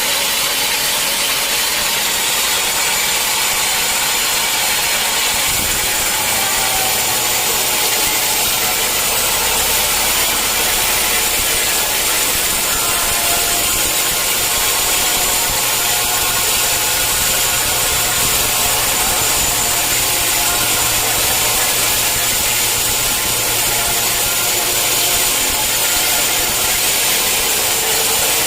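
Sawmill saw running and cutting through a mahogany log: a loud, steady, hissing saw noise, with a lower machine hum that comes in about five seconds in.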